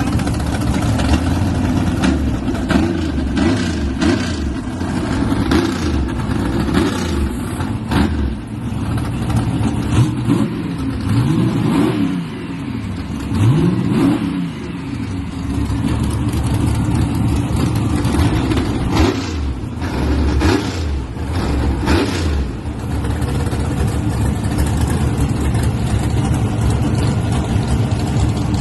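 V8 drag-truck engines running with a loud, lopey rumble and being revved. The pitch rises and falls sharply several times near the middle.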